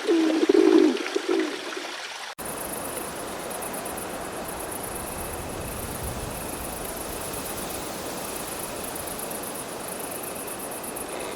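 A pigeon or dove cooing for about the first second and a half. Then, after an abrupt cut, a steady rushing like flowing water, with a fast, high pulsing chirr running through it.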